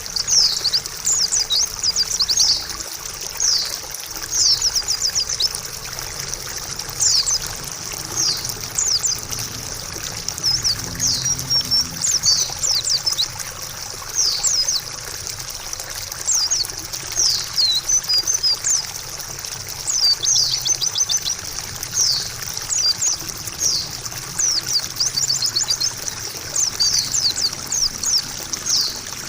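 White-eye (pleci) chirping in quick runs of short, high, falling notes, over a steady trickle of running water.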